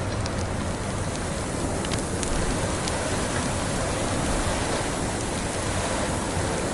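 Wood fire crackling over a steady rushing blizzard wind, with a few sharp pops in the first three seconds.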